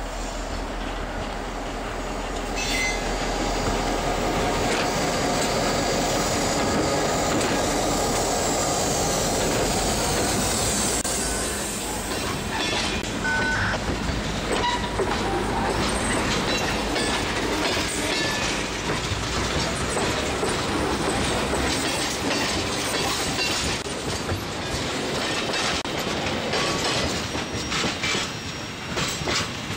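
A diesel-electric freight train passing close by. The Soo Line locomotives' engines drone loudly as they go by during the first dozen seconds. Then the hopper and tank cars roll past with a steady clickety-clack of wheels over the rail joints.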